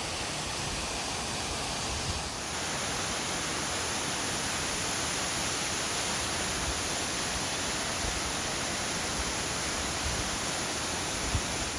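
Waterfall rushing, a steady even hiss of falling water. About two seconds in it becomes slightly louder and brighter.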